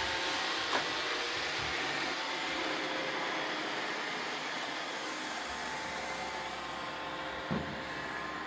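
Roomba robot vacuum cleaners running steadily, a continuous motor and suction hum with faint whining tones. There are two brief knocks, one about a second in and one near the end.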